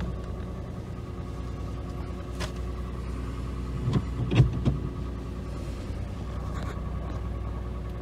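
Peugeot 107 engine idling steadily just after starting, with a few knocks about four seconds in. The car was brought in as a crank-but-no-start fault and now runs.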